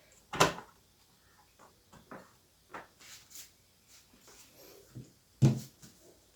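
Scattered knocks and clicks of a keyboard's circuit board and plastic casing parts being handled and fitted back into place, with a louder knock just after the start and another about five and a half seconds in.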